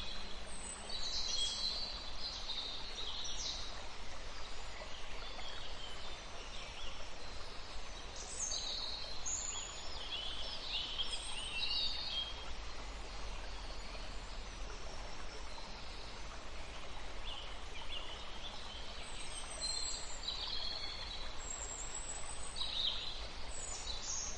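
High-pitched bird chirps and short twittering calls, coming in scattered clusters throughout, over a steady outdoor hiss.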